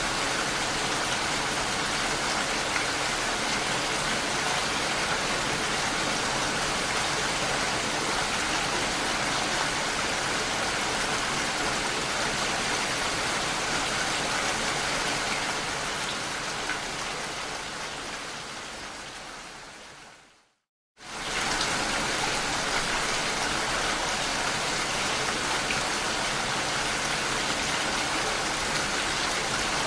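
Steady rain, a dense even hiss of falling drops. About two-thirds of the way through it fades away to a moment of silence, then comes straight back in at full level.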